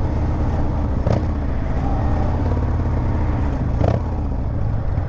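Harley-Davidson motorcycle engine running steadily under way, with wind rushing past the microphone. Two brief knocks, about one second and four seconds in.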